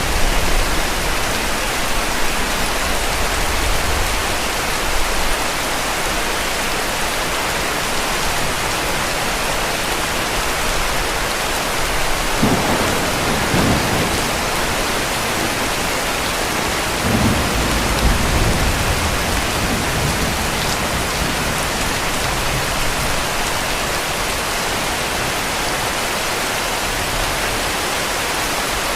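Heavy rain falling steadily, with two low rumbles of distant thunder about halfway through.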